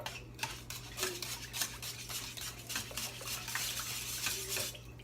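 A spatula stirring and scraping in a pan, breaking up condensed cream of chicken soup in water, with frequent irregular clicks and scrapes against the pan.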